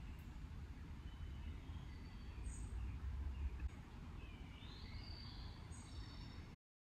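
Faint outdoor birdsong: a short high chirp repeating every three seconds or so and a few thin whistled notes, over a steady low rumble. The sound cuts off suddenly near the end.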